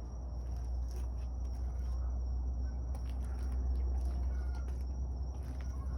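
Geese calling faintly a few times, over a steady low rumble.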